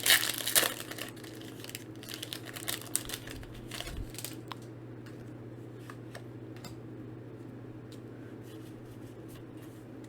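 Foil trading-card booster pack crinkling as it is torn open in the first second, then light clicks and taps of the cards being handled and flipped through, thinning out after a few seconds.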